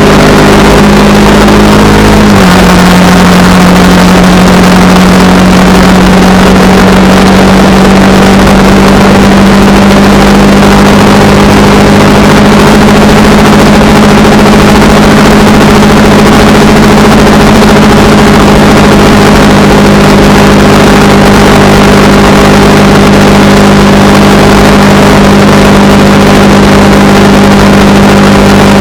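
Honda Rebel 300 motorcycle engine running at a steady cruising speed, with wind rush. The engine note drops slightly in pitch about two seconds in, then holds steady.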